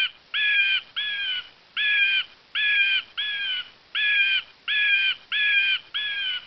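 A large bird calling in a steady series of harsh, repeated calls, about three every two seconds, each one dipping slightly at its end.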